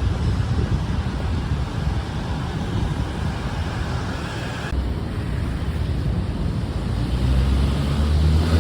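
Road traffic noise: a steady low rumble of passing cars, swelling louder near the end.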